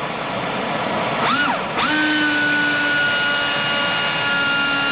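Pneumatic angle grinder running while its right-angle gearbox is heated with a torch: a short rise and fall in speed about a second and a half in, then a steady high whine from about two seconds in, over a continuous hiss.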